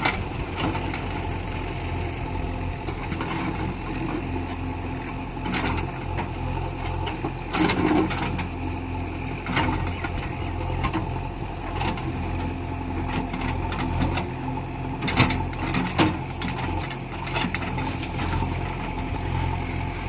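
A heavy machine's diesel engine running steadily, with scattered sharp knocks and rattles over it.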